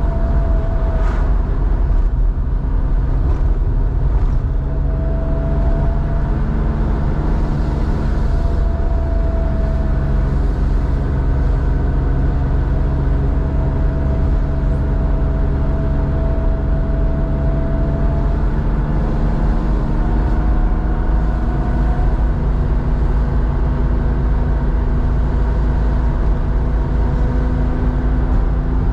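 1987 Porsche 911's 3.4-litre air-cooled flat-six exhaust note through a SCART two-in-one-out muffler, driving at fairly steady revs. A deep, even rumble whose pitch drifts slightly up and down.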